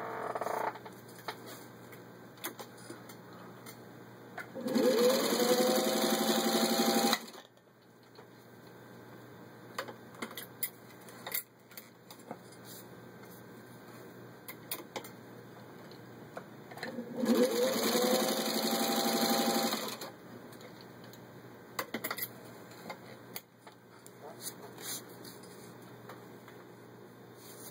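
1953 Singer 15-91 sewing machine's gear-driven motor stitching through four layers of vinyl upholstery, in two runs of about two and a half seconds each. Each run rises in pitch as the machine speeds up, then holds steady. Light clicks come between the runs.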